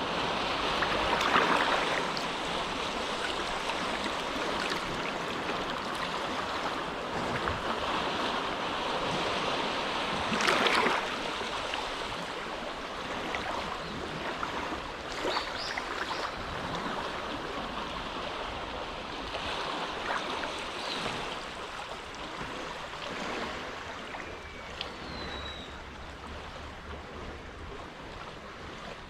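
Small, gentle waves lapping at the shore of a calm inlet, a steady wash that swells and eases, with a couple of slightly louder splashes, the first about a second in and another about ten seconds in.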